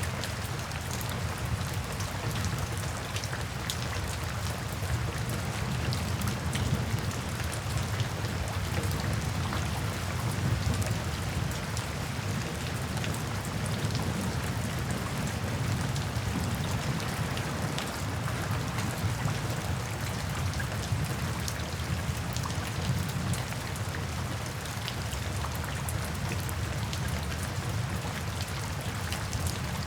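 Steady rain falling, with many individual drops ticking on a surface, over a low, even rumble.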